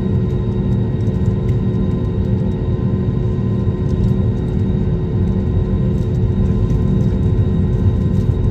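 Passenger airliner cabin noise: a steady low rumble of engines and airflow, with a few faint steady hum tones riding over it.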